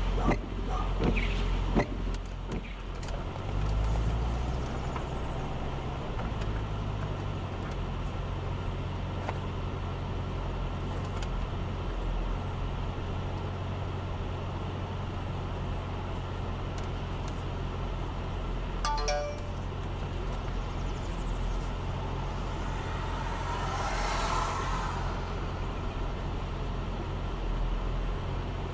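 A car engine idling, a steady low hum heard from inside the car's cabin. A few clicks come in the first couple of seconds, a short run of rapid ticks about two-thirds of the way in, and a brief louder noise near the end.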